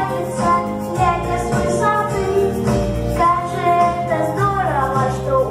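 Young children singing a song together to a recorded musical backing track.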